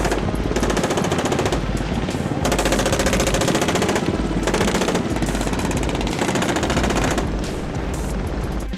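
Several long bursts of rapid automatic gunfire with short breaks between them, over background music.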